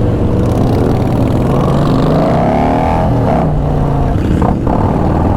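Motorcycle engines running, with one bike revving up in pitch about two seconds in and easing off again.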